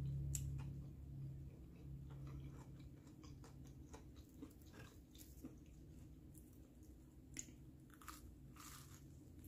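Close-miked eating: soft chewing with faint wet mouth clicks, and crunching bites into a toasted grilled cheese sandwich about eight seconds in. A low hum fades out over the first couple of seconds.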